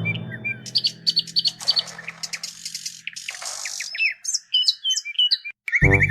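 Birds chirping in quick short tweets and sweeps, with two brief bursts of hiss. A music track fades out over the first couple of seconds and a new tune starts near the end.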